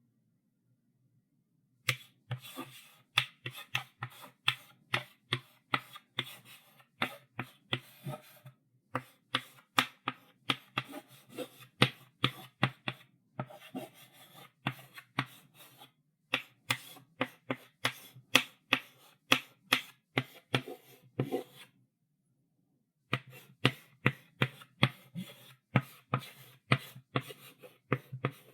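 Chalk writing on a blackboard: quick taps and short scratchy strokes, several a second. They start about two seconds in, break off briefly about three-quarters of the way through, then carry on.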